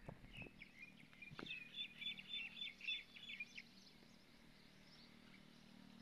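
A small bird chirping faintly in a quick run of short, high chirps that stops after about three and a half seconds, leaving a faint steady hum.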